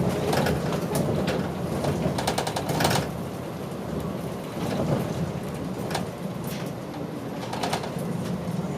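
Running sound of a route bus heard from inside the cabin: a low, steady engine hum with the body and fittings rattling. The rattling is busiest in the first three seconds, after which the whole sound eases a little.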